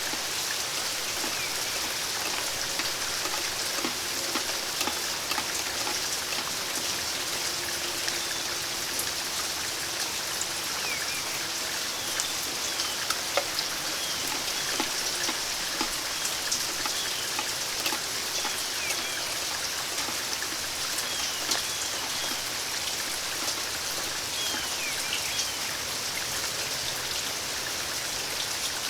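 Steady rain falling, with individual drops ticking sharply close by. Short, high bird chirps come through the rain in the second half.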